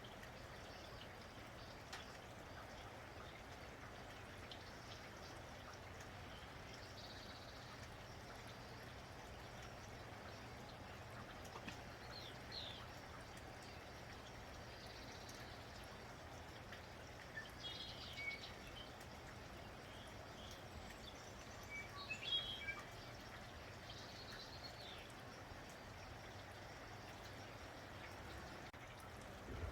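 Faint steady rain, with birds chirping now and then, a few short calls at a time.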